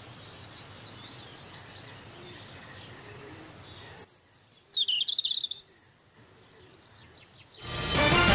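Birds chirping, short high calls over a faint steady hiss, with a louder flurry of chirps about five seconds in. Music swells in near the end.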